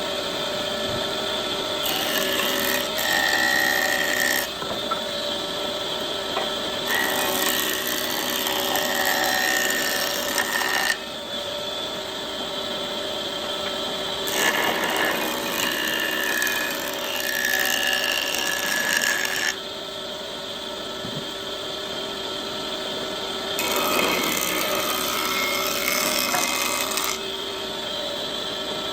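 Woodworking power tools running on wood, with steady motor tones, in short stretches that switch abruptly every few seconds.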